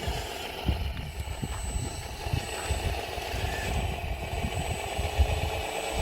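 Radio-controlled model dump truck running: a steady small-motor hum with an uneven low rumble underneath.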